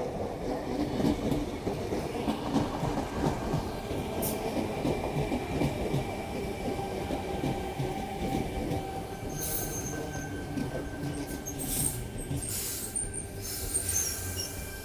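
A Sydney Trains Tangara electric multiple unit pulling into the platform: a dense rumble of wheels on rail with steady squealing and whining tones running through it. In the second half a few short bursts of hiss come in over it.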